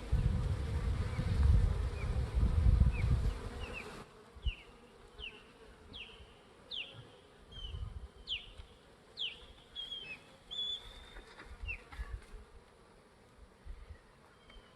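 A swarm of honeybees buzzing, at first under a loud low rumble. About four seconds in the sound cuts to a quieter take, where a bird sings a run of short falling whistles, about one or two a second.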